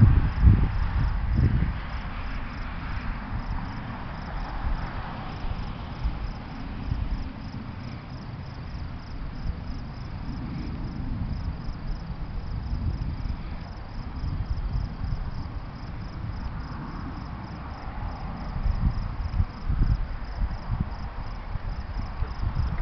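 Outdoor thunderstorm ambience: a low rumble, loudest in the first couple of seconds, settles into a steady low noise, with crickets chirping faintly.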